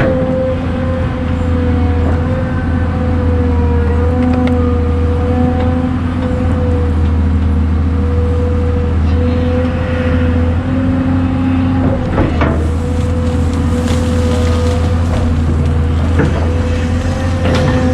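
Heavy diesel engine running steadily at constant speed, with a steady whine over its low hum and a couple of faint knocks.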